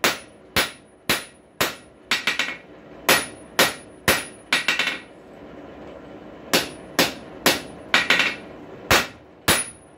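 Blacksmith's hammer striking a hot rail spike on an anvil, drawing it out into a taper: sharp ringing blows about twice a second, with quick light taps between some of them. The blows stop for about a second and a half midway, then start again.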